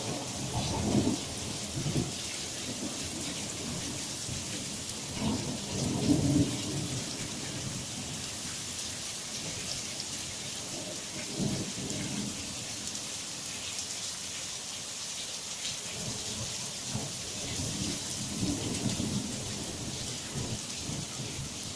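Thunderstorm: steady heavy rain hissing, with low rolls of thunder rumbling up several times, the strongest about six seconds in.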